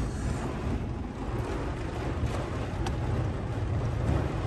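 Heavy thunderstorm rain and wind beating on a truck, heard from inside the cab as a steady rushing noise with a low rumble underneath.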